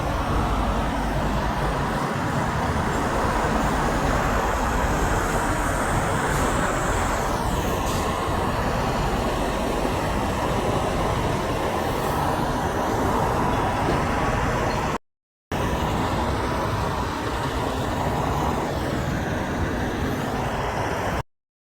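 Steady roadway traffic noise from passing vehicles, with no horn sounding. The sound cuts out completely twice, briefly: about two-thirds of the way through and again just before the end.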